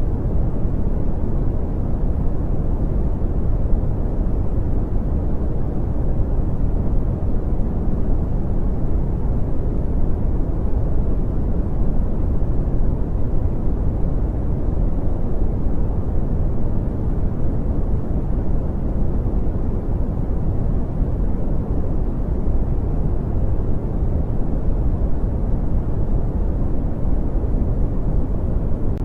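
Brown noise: a steady, deep rushing hiss, strongest in the low end and dull in the highs, unchanging throughout.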